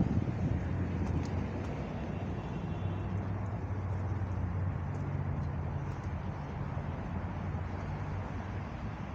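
Street traffic: a motor vehicle's engine hum with road noise, held steady.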